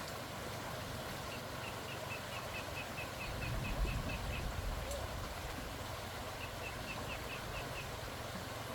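Steady outdoor noise with runs of short, high chirps repeating about five times a second from a small animal or bird, and a brief low rumble about four seconds in.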